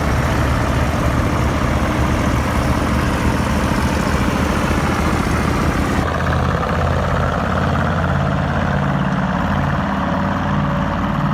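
Heavy MAN KAT off-road trucks' diesel engines running hard and steadily under load while towing a heavy fuel truck. The sound shifts in tone about halfway through.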